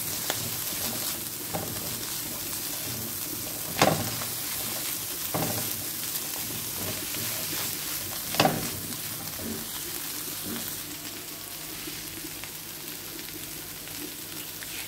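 Diced carrots, onion and corned beef sizzling in hot oil in a non-stick wok while being stirred with a silicone spatula. A steady sizzle, with a few sharp knocks and scrapes of the spatula against the pan, loudest about four and eight and a half seconds in.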